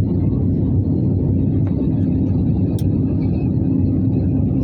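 Steady low roar of an airliner's cabin during descent: engine and airflow noise heard from inside the plane, with a faint steady hum running through it.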